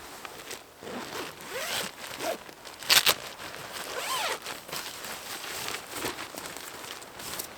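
A zipper being pulled in several short strokes, with a couple of sharp clicks about three seconds in.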